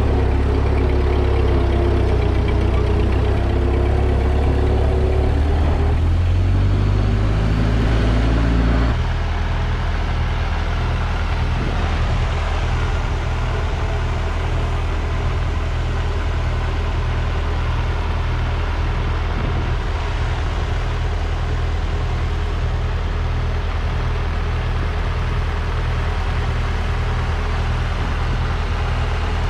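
Ford 2N tractor's four-cylinder engine running hard under load, then dropping suddenly to a steady idle about nine seconds in.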